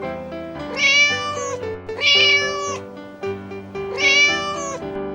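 Domestic cat meowing three times, each meow rising and then falling in pitch, over light background music.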